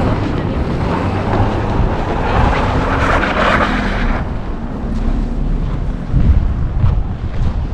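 Wind buffeting the microphone in a low, uneven rumble, with a louder rushing hiss over it that stops suddenly about four seconds in.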